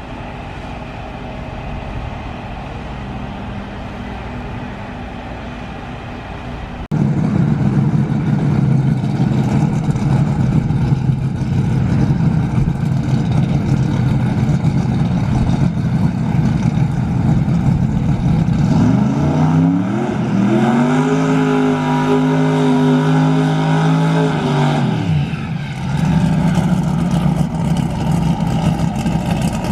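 Drag race car engine running, noticeably louder from about seven seconds in; about two-thirds through it revs up, holds a steady higher pitch for around five seconds, then drops back.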